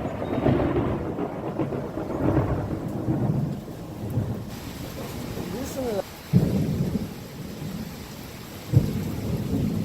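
Thunder rumbling in waves with steady rain falling. A hiss of rain comes up about halfway through, and there are two sudden loud thumps, one past the middle and one near the end.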